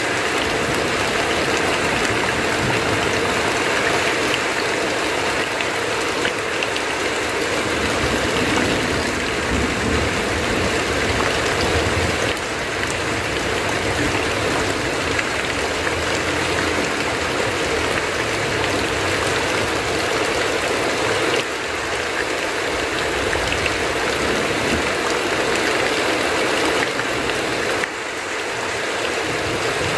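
Heavy rain falling steadily on a tin roof, with runoff pouring off the roof edge.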